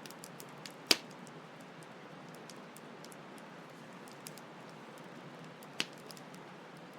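Campfire crackling with a few sharp pops, the loudest about a second in and another near six seconds, over a steady rush of flowing stream water.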